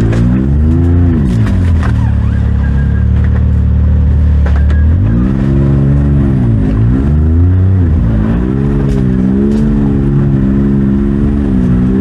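Side-by-side UTV engine revving up and down under load on a rocky climb. The pitch drops and rises several times, holding lower and steadier for a few seconds in the first half, with scattered knocks through it.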